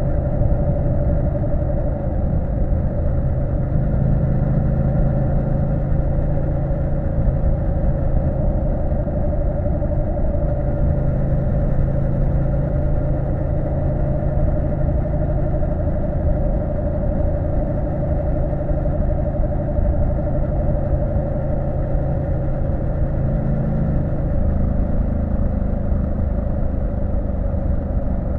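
Triumph Street Scrambler 900's 900 cc parallel-twin engine running steadily while the motorcycle is ridden. The engine note changes about four seconds in and again near the end.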